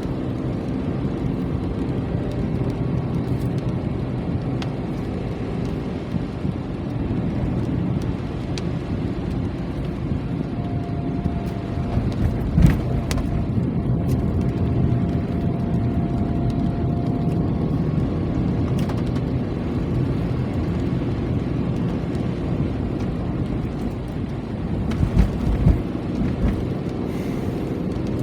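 Steady rain with a dense low rumble and a few sharp taps, one of them louder about halfway through.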